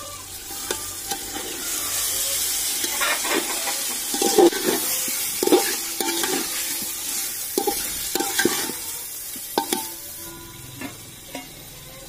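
Chicken curry sizzling in an aluminium pot while a spatula stirs it, scraping and knocking against the pot's sides. The sizzle swells after the first couple of seconds and dies down near the end.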